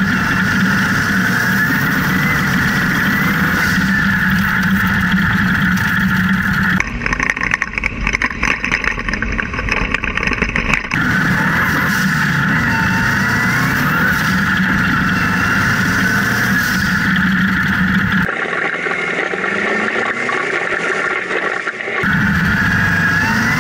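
Subaru WRX STI engine of an off-road buggy running hard, its revs climbing again and again as it accelerates, heard from inside the open cockpit. The sound changes abruptly to a choppier, rougher stretch about seven seconds in and again near the end.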